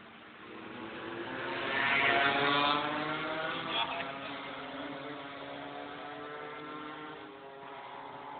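Old Vespa scooter's two-stroke engine running on the road. It grows louder over the first two seconds, then settles into a steady note.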